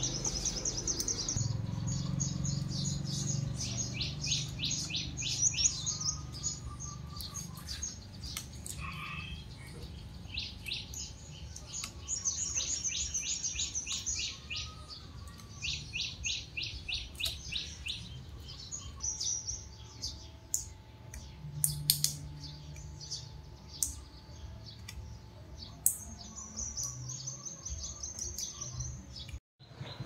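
Small birds chirping in repeated fast trills of short high notes, coming in several bursts, with a few sharp clicks in between.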